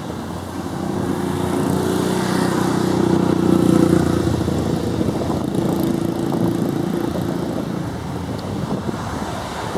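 Turboprop aircraft passing: engine and propeller drone with a steady pitch, growing louder to a peak about four seconds in, then slowly fading.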